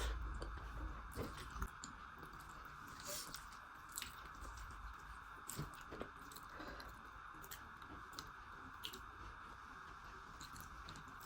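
Close-miked chewing of a person eating rice and curry, with soft irregular mouth clicks and smacks over a steady faint hiss.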